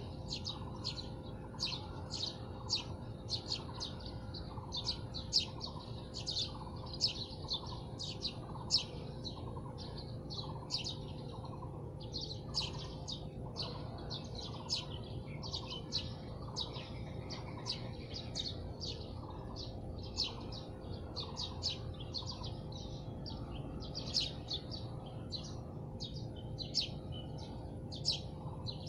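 Wild birds chirping continuously in many short, high, quick-falling notes, a couple or more every second, from several birds at once. A faint steady high-pitched whine runs underneath.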